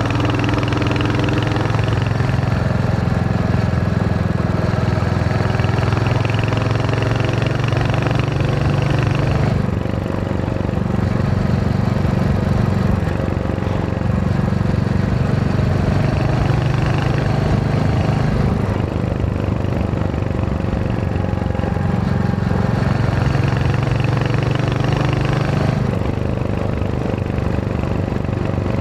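Royal Enfield Hunter 350's single-cylinder engine running while the motorcycle is ridden, its note shifting down and back up several times as the speed changes.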